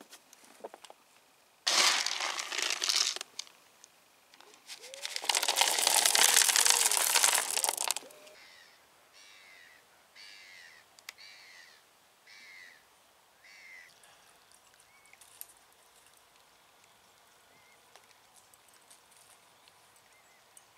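Two loud stretches of rustling, rattling noise in the first eight seconds. These are followed by a bird calling, a short falling note repeated about seven times.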